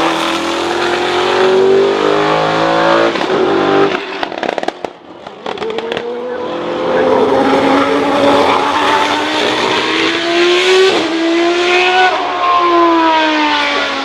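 Racing car engines at high revs, their pitch climbing as they accelerate. About four to five seconds in, the engine sound briefly drops away, with a few sharp crackles. A long rising engine note follows and falls in pitch near the end.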